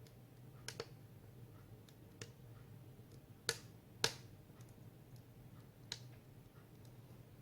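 Firewood burning in a wood stove, crackling with scattered sharp pops at irregular intervals; the two loudest come about half a second apart near the middle. A faint steady low hum lies underneath.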